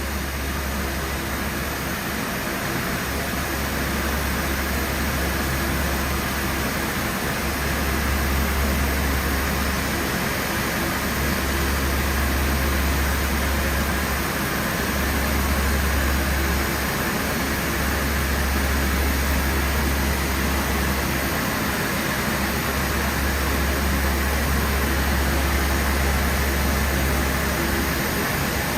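Steady machinery drone: a low hum under an even rushing hiss, swelling and easing slightly but never stopping.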